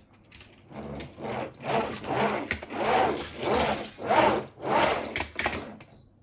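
Small toy vehicle rolled back and forth over a hard surface, its wheels making a rhythmic rolling rub that swells and fades about every half second and stops shortly before the end.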